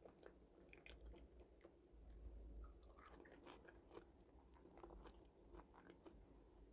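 Faint chewing of potato fries, with small scattered clicks and ticks.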